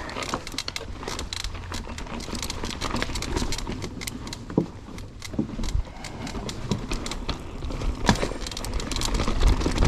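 Mountain bike rolling down a rocky trail: a steady clatter of rattles and knocks from the bike over roots and rocks, with wind rumble on the microphone growing louder near the end.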